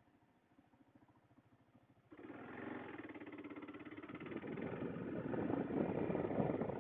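Kawasaki KLR 650 single-cylinder motorcycle engine starting abruptly about two seconds in, then running with a fast pulsing beat and getting louder from about four seconds in.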